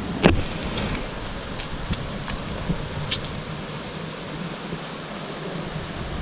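Steady rush of water from cascading waterfalls, with a few light clicks or knocks in the first few seconds.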